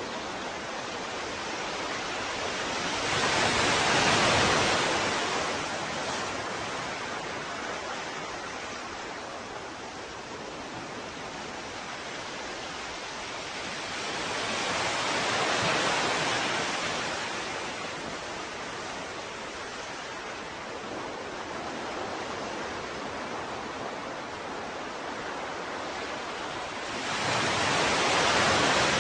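Ocean waves washing in, three slow swells about twelve seconds apart, with a steady surf hiss between them.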